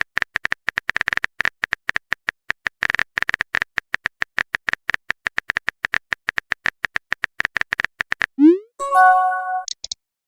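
Phone-keyboard typing sound effect: rapid, uneven clicks for about eight seconds. Near the end come a short rising swoop and a chat-message notification tone.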